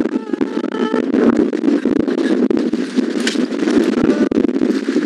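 Rain and wind noise on the microphone: a steady rush with many irregular crackles and clicks throughout.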